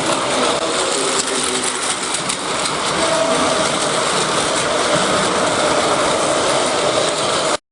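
Battery-powered Plarail toy trains running on plastic track, their small motors and gearboxes whirring and clattering steadily. The sound cuts off suddenly near the end.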